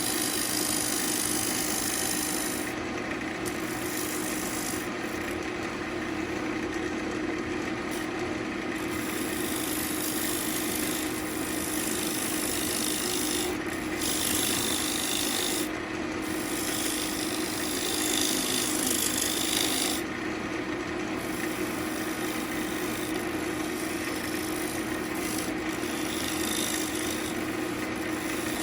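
Central Machinery wood lathe running with a steady hum while a turning tool cuts the spinning ambrosia maple bowl blank, giving a scraping hiss that eases off and comes back several times.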